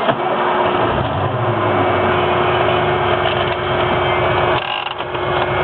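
Pickup truck engine starting about a second in, then idling steadily, over a steady hum from the small air conditioner running off the inverter.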